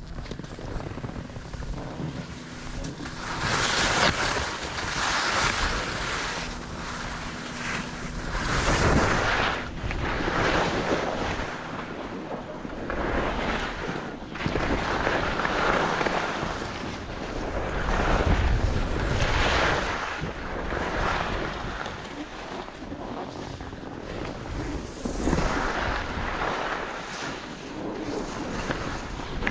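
Skis carving turns on packed snow: a scraping hiss that swells and fades with each turn, about every second or two, over wind buffeting the microphone.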